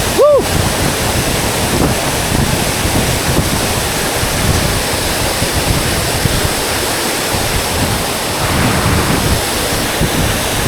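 Waterfall rushing and splashing close by, a loud, steady roar of falling water. A short voice call rises and falls just after the start.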